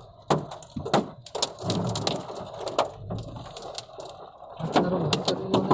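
Hailstones pelting a car, an irregular run of sharp knocks over the steady hiss of rain.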